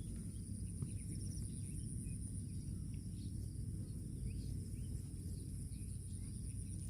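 Outdoor rural ambience: a steady high-pitched insect drone, with scattered short bird chirps over a constant low rumble.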